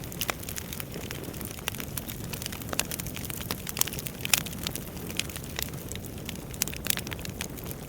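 Wood fire burning in a fireplace: a steady low rumble of the flames with irregular sharp crackles and pops from the burning logs, one louder pop a little past the middle.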